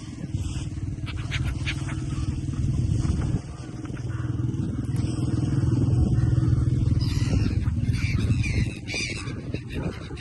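An engine running steadily, with a brief dip about three seconds in; near the end it eases off and a few short high chirps come through.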